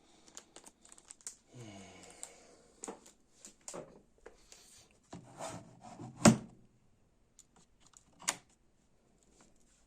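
Scattered clicks, knocks and rubbing, as of something being handled, the loudest knock about six seconds in, with a short tone that falls in pitch about two seconds in.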